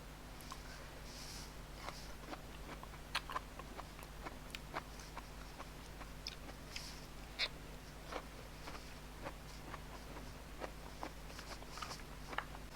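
A person eating close to the microphone: soft chewing and mouth smacks with scattered small clicks, as steamed tilapia and sticky rice are eaten.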